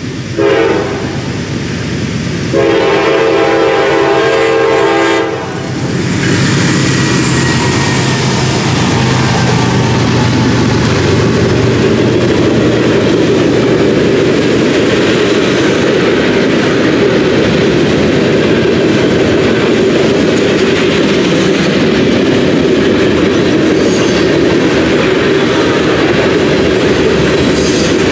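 Norfolk Southern freight locomotive's air horn sounding a short blast and then a long one, the close of the standard grade-crossing horn signal. The diesel locomotive then passes close by, followed by a steady rumble of freight cars rolling past, their wheels clacking over the rail joints, with faint wheel squeals.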